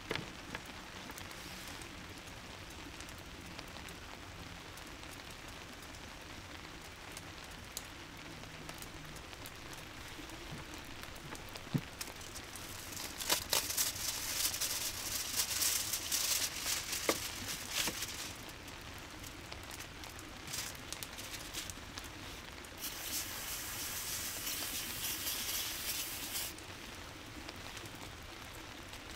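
Steady rain in the background, with two louder stretches of crackling hiss: one about thirteen seconds in lasting some five seconds, another about twenty-three seconds in lasting some three seconds.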